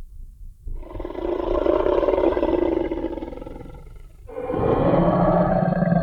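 Designed Tyrannosaurus rex roar sound effect: two long, loud roars, the first starting about a second in and fading away after a few seconds, the second rising just past the middle and still going at the end with a deep steady tone underneath. A low rumble sits beneath throughout.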